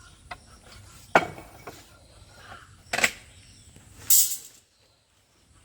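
Several sharp knocks at irregular intervals, the loudest about a second in and three seconds in. They are followed by a brief high hiss, after which the sound cuts out almost completely.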